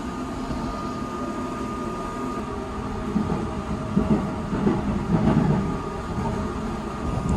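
Running noise of a Seibu 001 series Laview electric train, heard from inside the car: a steady rumble with a thin steady tone. About three seconds in it grows louder, with irregular low thumps.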